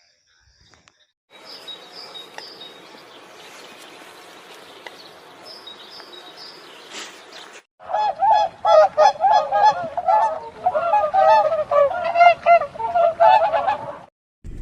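Geese honking: a rapid run of loud, overlapping calls begins about eight seconds in. Before it there is a quieter stretch of outdoor background with a few high bird chirps.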